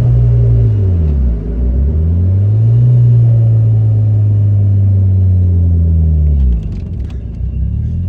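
Big-single-turbo Eagle Talon TSi's 4G63 inline-four running hard, heard from inside the car: the engine note dips about a second in, climbs again and holds high, then drops away suddenly near the end.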